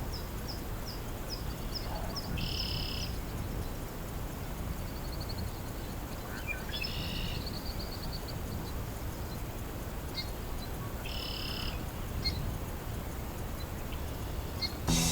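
Wildlife calling in a wetland. A quick run of short, high, falling chirps comes first, then a short buzzy call repeats about every four seconds, over a steady low rumble of wind or water.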